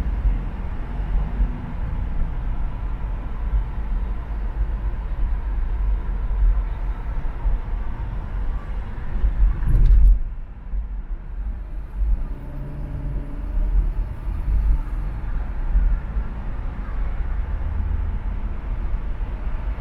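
Road noise from driving on an urban expressway: a steady low rumble of tyres and traffic. About halfway through there is a brief loud thump, after which the hiss thins for a few seconds before building again.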